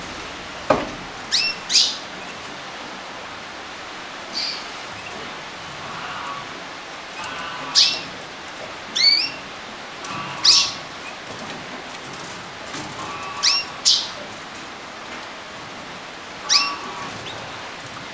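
Canaries giving short chirping calls, about a dozen separate chirps spaced a second or more apart, over a steady hiss.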